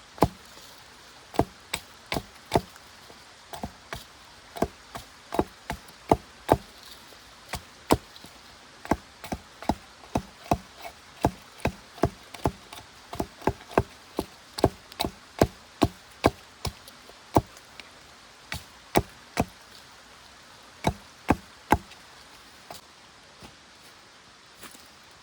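Wood being struck over and over with a cutting or striking tool: a fast, uneven series of sharp chopping knocks, about two a second, that stop near the end, leaving a few faint taps.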